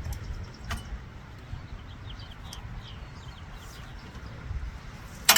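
Hand tools and metal parts being handled as a lawnmower carburetor is unbolted and taken off: a few small clicks, then one sharp metallic clink near the end. Faint bird chirps in the background.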